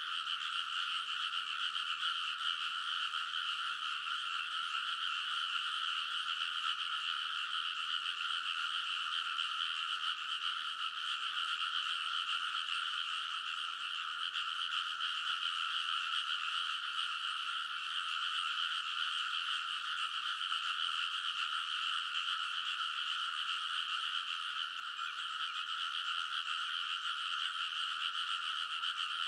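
Many frogs in a rice paddy calling together in a dense, unbroken chorus, the calls overlapping into a steady wall of sound.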